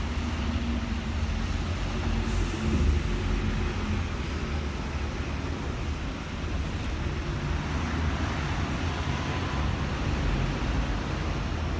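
Steady city road traffic rumble with heavy vehicle engines running, and a short high hiss about two seconds in.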